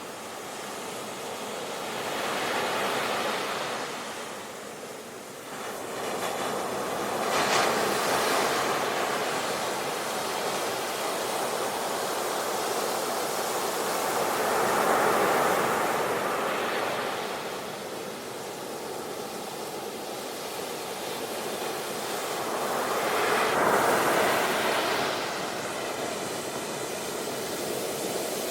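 Ocean waves breaking on the shore and washing back in a steady hiss, swelling with each wave every several seconds; the loudest breakers come about 8, 15 and 24 seconds in.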